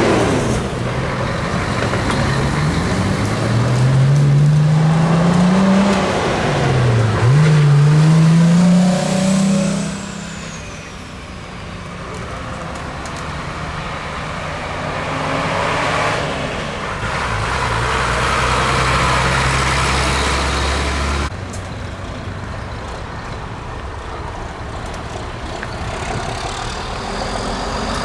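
Heavy diesel truck accelerating away: the engine note rises, drops sharply at a gear change about seven seconds in, then rises again. After that comes quieter engine and road noise.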